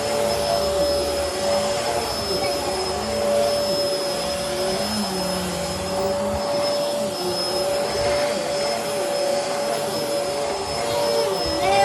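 Bissell Helix upright vacuum cleaner running steadily, with a constant whine over its motor noise and lower tones that waver as it is worked.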